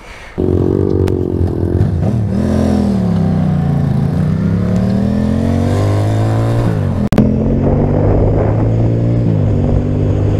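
Motorcycle engine running under way, starting abruptly. Its pitch drops and then climbs as the revs change, with a brief break about seven seconds in, then settles into a steady run.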